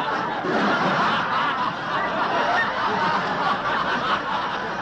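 Arena crowd at a boxing match: many voices shouting and cheering at once in a steady, dense din.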